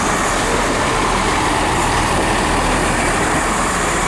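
Diesel train at a station, running with a loud, steady noise that holds level throughout.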